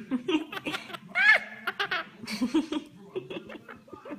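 Quaker parrot chattering in short bursts of clicks and brief calls, with a louder, higher call about a second in.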